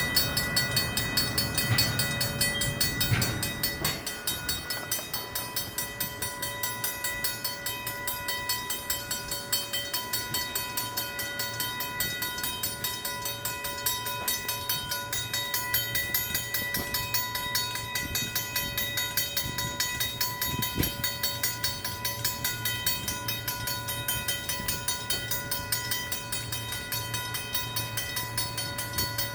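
Griswold mechanical crossing bells ringing with rapid, even strokes: the grade crossing is activated for an approaching train.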